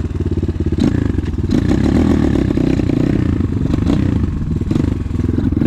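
A 250 cc single-cylinder enduro motorcycle engine idling steadily, with a few light clatters over it.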